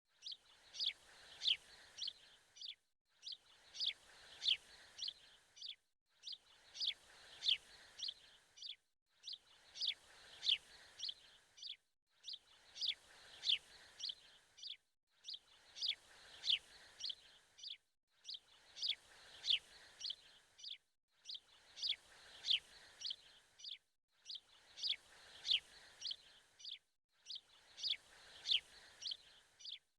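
Birds chirping in a short repeating phrase of a few quick high chirps, the same phrase coming round about every three seconds with a brief silent gap between.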